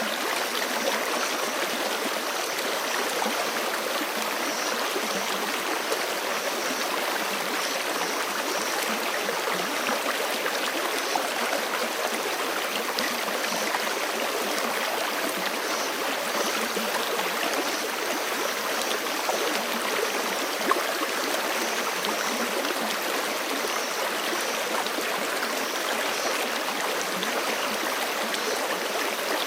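Forest creek flowing: a steady, even rush of running water with no breaks.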